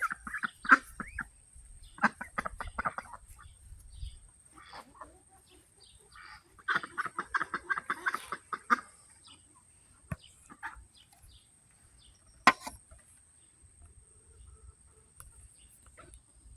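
Chickens clucking in quick runs of calls, in three bouts: at the start, about two seconds in, and a longer run about seven seconds in. A single sharp click comes near the end.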